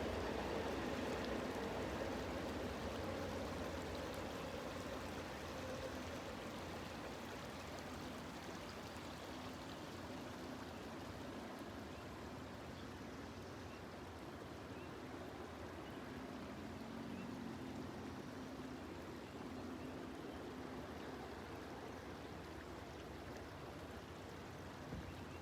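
Amtrak passenger train receding into the distance, its rumble fading over several seconds into a steady, even rushing noise.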